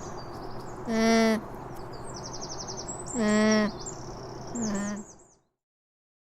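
Alpaca humming: three short, level-pitched hums about a second and a half apart, with small birds chirping in the background.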